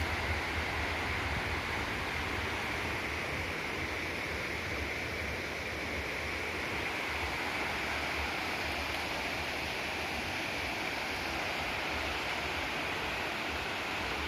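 Steady rushing of a river and waterfall, an even wash of water noise that does not change.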